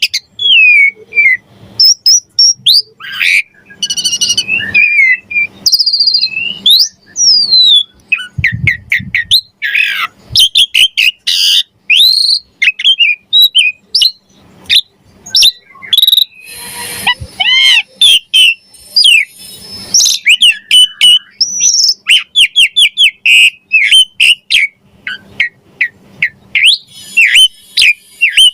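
Asian pied starling (jalak suren) singing a long, fast, varied song of rising and falling whistles, short chirps, sharp clicks and a few harsh rasping notes, with fill-in phrases mimicked from other birds.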